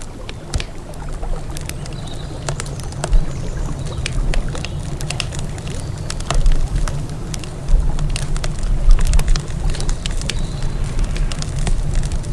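Campfire crackling: many sharp, irregular pops and snaps over a steady low rumble that grows louder a little past the middle.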